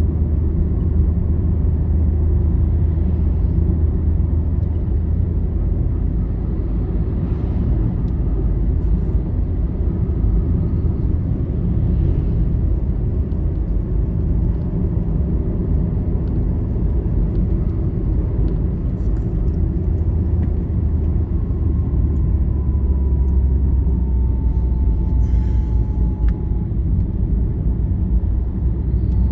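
Steady low rumble of a vehicle travelling on a highway: road and engine noise. A faint whine sits above it and drops a little in pitch about three-quarters of the way through.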